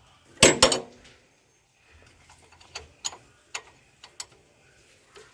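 Click of the wiring connector's clip being pressed and the plug pulled off the radiator temperature sensor of a Toyota Qualis: two sharp clicks about half a second in, then several lighter, spaced clicks and taps.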